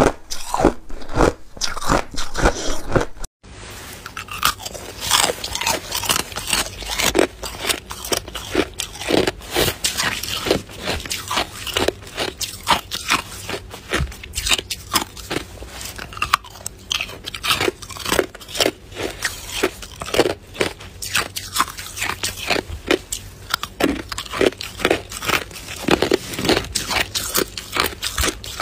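Ice being bitten and chewed close to the microphone: a dense run of sharp, crisp crunches. It cuts out briefly about three seconds in.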